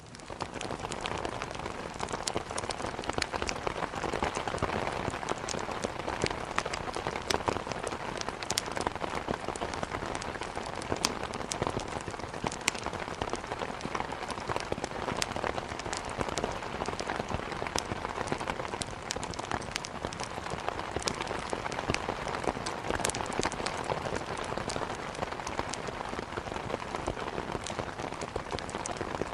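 Steady rain with many scattered sharp crackles from a wood fire burning in a fireplace.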